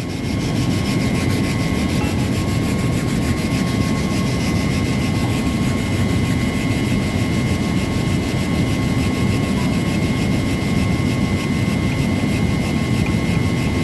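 Machinery running steadily: a constant hum and rumble with a steady high whine through it.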